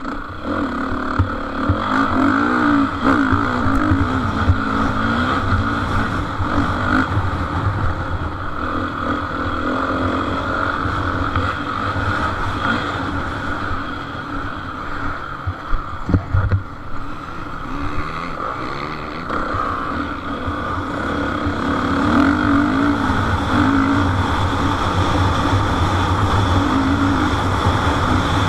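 Motocross bikes' engines running and revving on the track, their pitch rising and falling continuously, with a few sharp knocks about halfway through.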